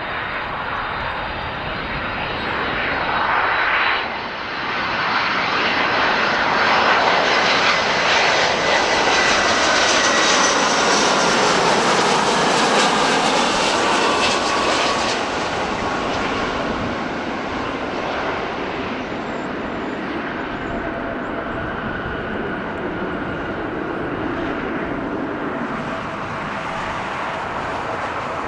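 Jet airliner passing close by: the engines' whine and rumble build up, are loudest about halfway through, then slowly fade, with a thin high fan whine heard throughout.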